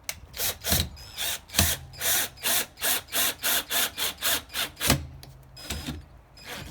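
Angle grinder polishing an aluminium motorcycle engine case: the spinning pad is swept across the metal in repeated rasping strokes, about three a second, over a faint steady motor hum. The strokes stop about five seconds in.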